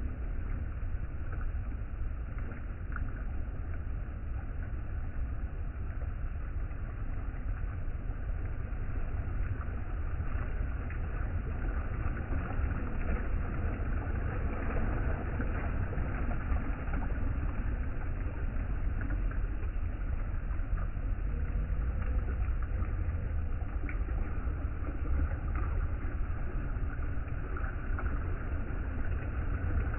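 Steady rush of river water with a constant low rumble underneath.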